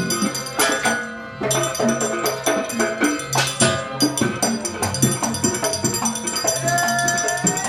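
Live Gandrung dance music from a Banyuwangi ensemble: fast, busy percussion with high metallic jingling, and a held melodic note near the end.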